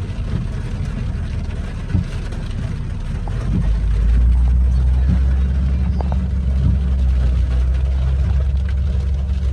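Car driving, heard from inside the cabin: a steady low rumble of engine and road noise that grows louder about three and a half seconds in.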